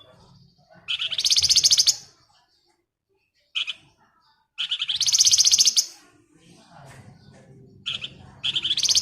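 A flamboyan songbird giving three bursts of fast, rattling trill, about a second each, the buzzing 'ngebren' song, with a short single note between the bursts.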